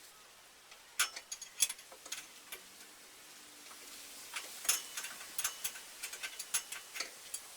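Sharp metallic clicks and clinks of hand tools and metal parts being handled, coming in irregular clusters of a few clicks at a time.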